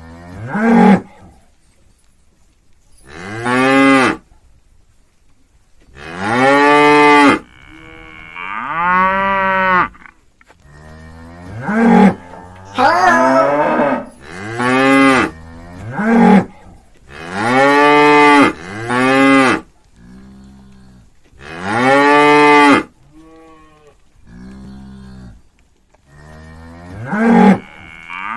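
Cows mooing over and over, about a dozen long calls a second or two apart, each rising and then falling in pitch. Some calls overlap, from more than one cow.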